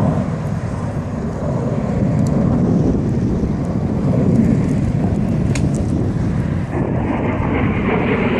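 Distant jet noise of Blue Angels F/A-18 Hornets flying the display, under heavy wind buffeting on the phone's microphone. The jet noise grows stronger near the end.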